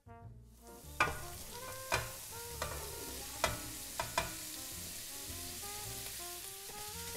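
Sliced mushrooms and red pepper sizzling in hot oil in a wok, with a steady frying hiss starting about half a second in. A spatula knocks sharply on metal six times in the first four seconds as the vegetables are scraped from a metal bowl into the pan.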